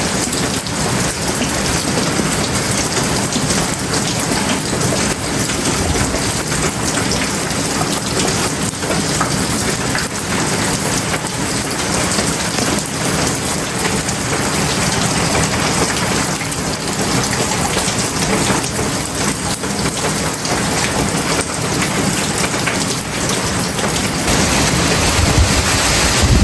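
Heavy tropical rain falling steadily, a dense even hiss of drops hitting surfaces, with a brief low rumble near the end.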